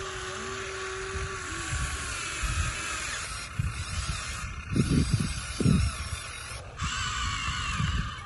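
Small electric gear motors of a toy RC excavator and dump truck whining steadily, with a few low knocks about halfway through.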